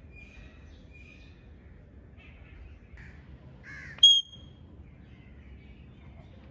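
Pet parrot calling: a few soft whistles and raspy chirps, then one short, loud, shrill squawk about four seconds in.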